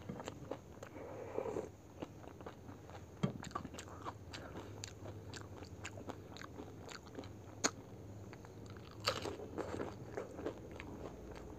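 A person chewing a mouthful of pani puri: crisp fried puri shells crunching with wet chewing, many short sharp crunches throughout and two denser stretches of chewing about a second in and near nine seconds.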